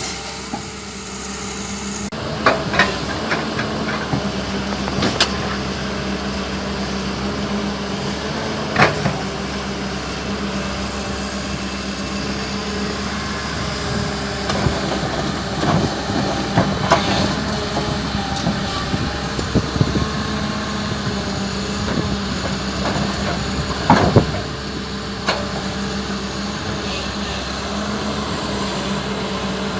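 Hyundai Robex 220LC-9S excavator's diesel engine running steadily while it works, with sharp clanking knocks every few seconds from the bucket and boom.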